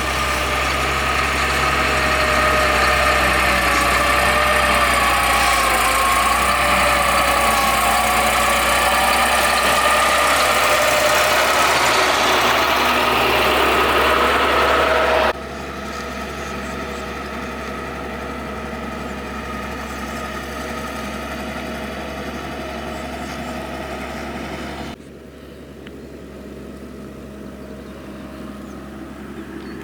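Heavy road-construction machinery, a motor grader and road roller, running steadily on diesel engines, with a whine that wavers in pitch through the first half. The sound drops suddenly in level twice, about halfway through and near the end.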